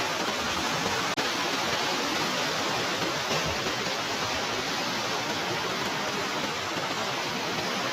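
Swollen Siran River in flood, a steady rush of fast floodwater, with a brief dropout about a second in.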